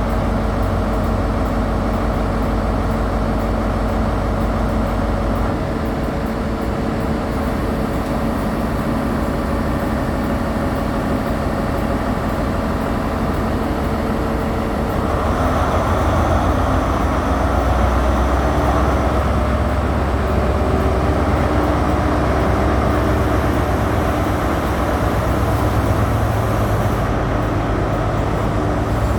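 Diesel train engine running at the platform, growing louder about halfway through as it powers up to depart.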